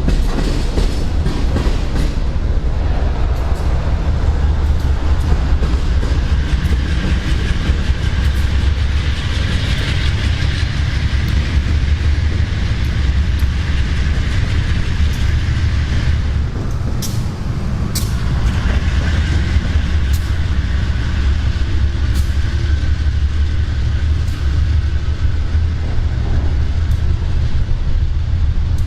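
A freight train's cars rolling past: a steady low rumble, with wheels clicking over rail joints every second or two.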